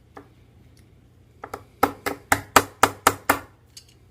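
A quick run of about eight sharp knocks, one hard object rapped against another about four times a second, starting about a second and a half in.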